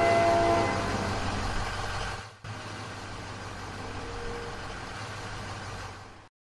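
Motor vehicle engine sound effect running steadily, with the tail of a horn honk in the first second. The engine sound breaks briefly about two and a half seconds in, resumes, and cuts off just before the end.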